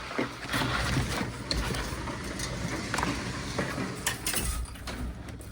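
Strong wind gusting and buffeting the microphone, with scattered knocks and rattles.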